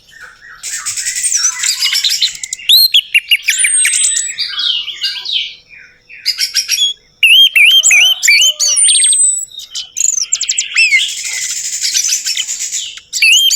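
Orange-headed thrush (anis merah) singing a long, varied song of curved whistles, rapid slurred notes and harsh chattering phrases, broken by short pauses.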